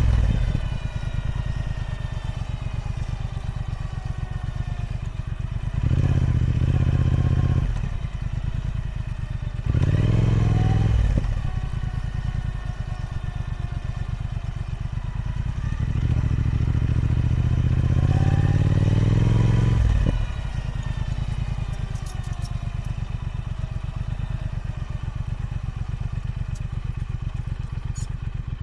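Triumph Speed Twin 1200's parallel-twin engine through its stock exhaust, the bike being ridden. The engine pulls harder and louder in bursts about six, ten and sixteen seconds in, and in between its pitch falls as it runs off the throttle.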